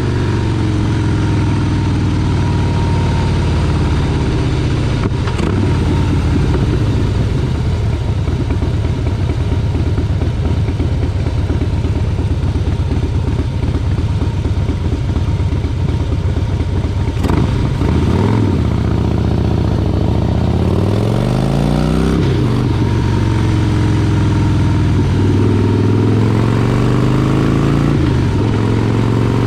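Motorcycle engine running while riding. Its pitch rises as it accelerates and falls back several times, as with throttle and gear changes.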